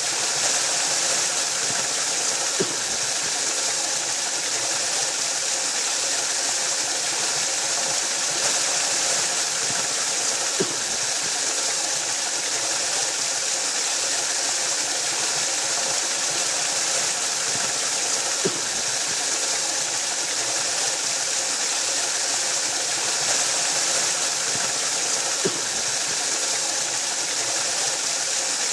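Waterfall rushing in a steady, even hiss of falling water, with faint soft clicks four times, about eight seconds apart.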